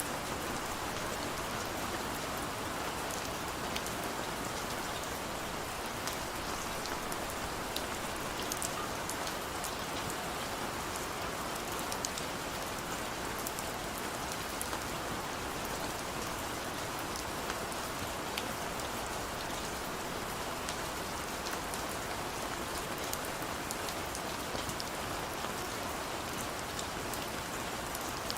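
Heavy rain falling steadily, a dense hiss with many small drop ticks and no thunder.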